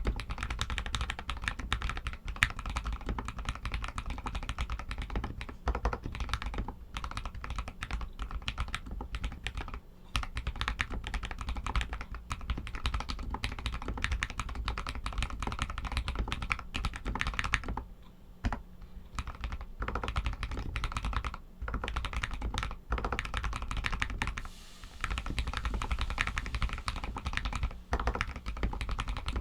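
Royal Kludge RK61 mechanical keyboard with Outemu Red linear switches being typed on steadily: a fast, continuous run of key clacks with a few short pauses.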